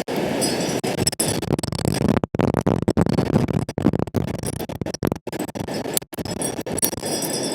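Wind buffeting the microphone: a loud, rough rushing rumble that cuts out abruptly for an instant several times.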